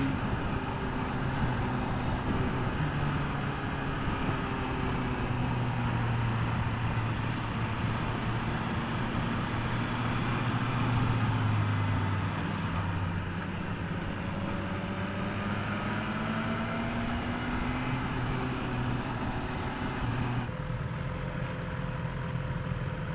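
BMW S1000R's inline-four with its stock exhaust running at low revs under wind rush, its note rising and falling gently through a roundabout. About 20 seconds in the wind drops as the bike slows, leaving the engine running steadily near idle.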